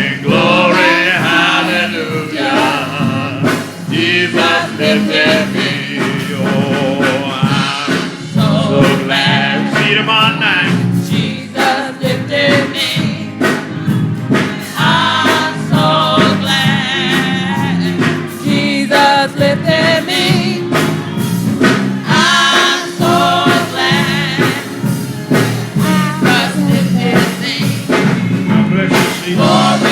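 Church congregation singing a gospel song together, many voices with a steady instrumental accompaniment underneath.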